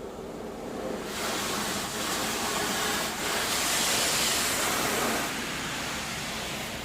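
High-pressure water jets of a touchless car wash spraying over a pickup truck, heard from inside the cab. The hiss of water drumming on the body and glass swells about a second in, is loudest around the middle, and eases off near the end as the spray arm moves past.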